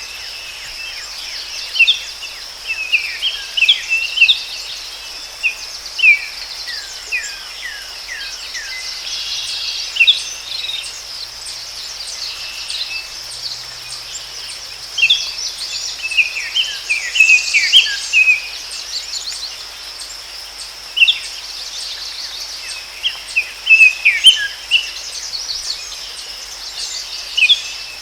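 Forest ambience: a steady high insect drone under songbirds calling in clusters of short, quick, falling chirps.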